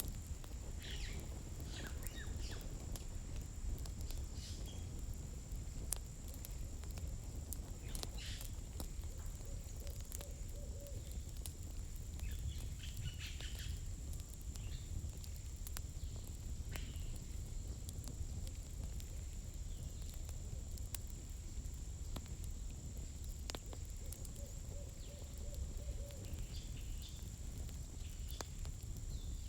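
Campfire burning, with sparse sharp crackles and pops of firewood over a steady low rumble. A faint steady high tone runs underneath, and a short held call is heard twice, once near the middle and once near the end.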